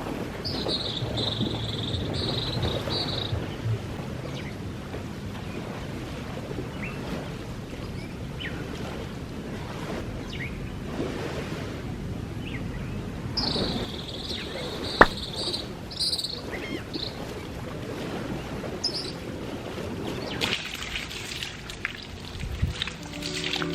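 Outdoor ambience of steady wind and water noise, with a high buzz lasting a few seconds twice, near the start and about two-thirds of the way through, and one sharp click about fifteen seconds in.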